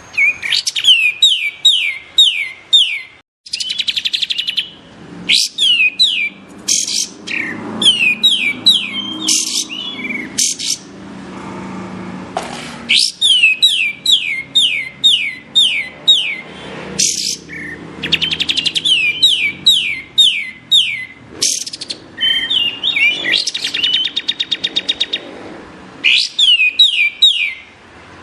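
Kapas tembak songbird singing: phrase after phrase of quick, sharp down-slurred whistles, mixed with rapid trills, broken by short pauses.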